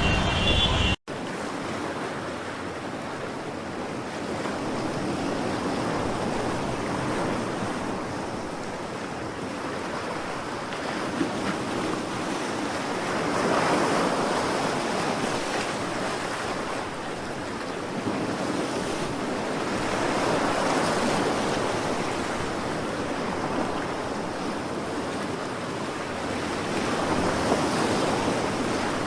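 Ocean surf: waves breaking and washing in a steady hiss that swells and fades slowly every several seconds. The sound begins abruptly about a second in.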